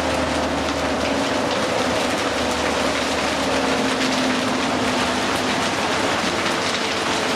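New Flyer D60LFR articulated diesel bus under way, heard from inside: a steady drivetrain drone and whine that drifts slowly in pitch, with rain hissing on the bus throughout.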